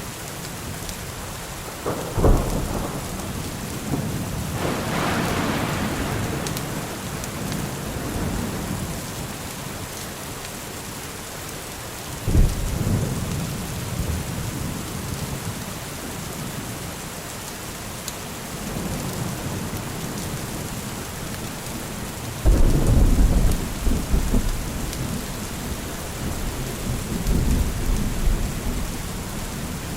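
Steady heavy rain with thunder: a sharp clap about two seconds in, another around twelve seconds, and a long rolling rumble through the last third.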